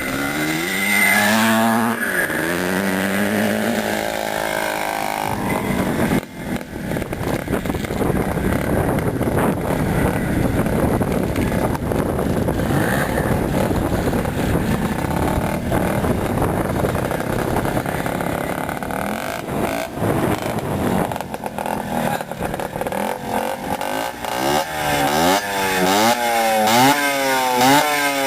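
Vintage CZ two-stroke motocross motorcycle engines revving, the pitch rising and falling as the throttle is worked. A dense, noisy stretch fills the middle, and near the end come quick repeated rises and falls in pitch.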